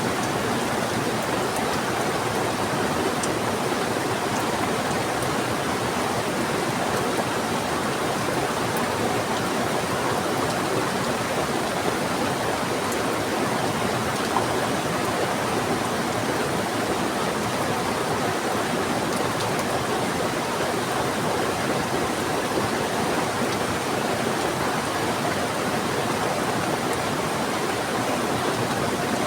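Heavy rain together with a fast-flowing river: a steady, even rush of water, with a few faint drop ticks.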